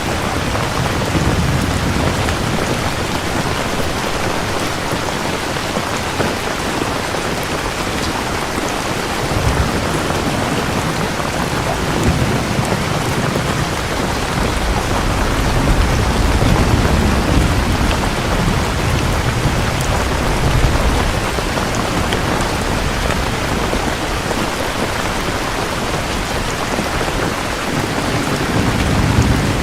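Steady heavy rain, with low rolls of thunder swelling and fading several times.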